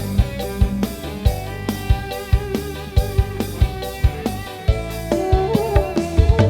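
Dangdut mini band playing with guitar and drum kit, a steady beat of about three drum hits a second and a short fill near the end.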